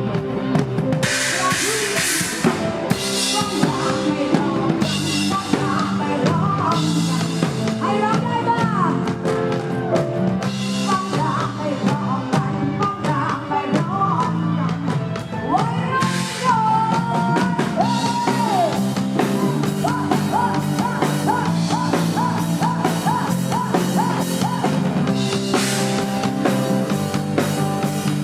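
Loud live band music with singing over a drum kit, a quick run of repeated melody notes in the second half.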